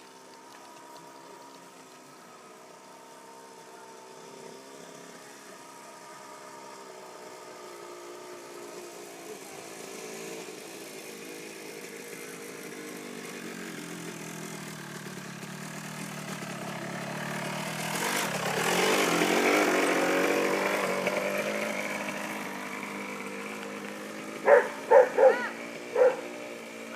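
Dirt bike engine running, drawing closer and growing louder, loudest about two-thirds of the way through as it passes, then fading as it moves away. Near the end, a dog barks four times.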